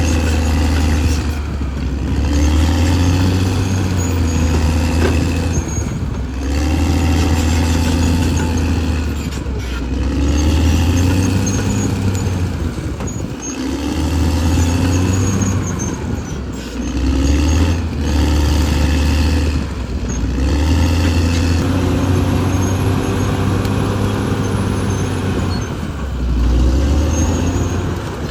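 Caterpillar D6R XL bulldozer working, its diesel engine running loud and steady under load, with the note swelling and easing every few seconds as the load on the blade changes.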